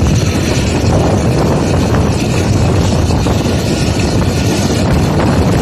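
Passenger train running at speed, heard from an open coach window: a steady rumble of wheels on the track mixed with the rush of wind.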